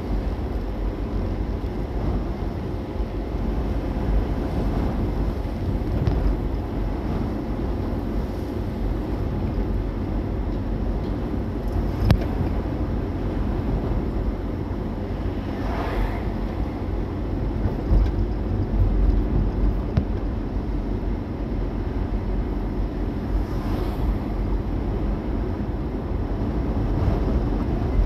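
Steady low rumble of a car driving, road and engine noise, with a few brief ticks.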